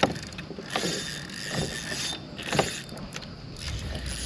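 Fishing reel being cranked against a big hooked fish, a steady mechanical whirr with a few sharp knocks about a second apart.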